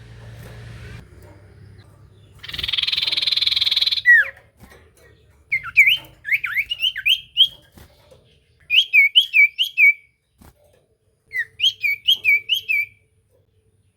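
Iora (cipoh) singing: a harsh buzzing trill ending in a falling note, then three bursts of quick, repeated whistled notes rising and falling in pitch.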